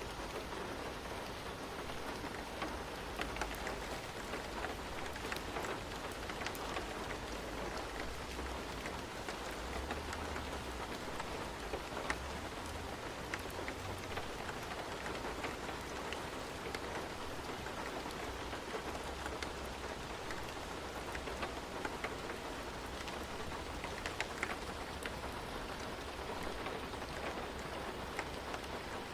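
Steady rain falling on a surface, with scattered individual drops ticking through the even hiss.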